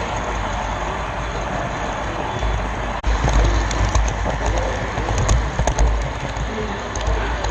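Rolling rumble of a model railroad camera car running along the track, with clicks over rail joints; it gets louder and rougher about three seconds in.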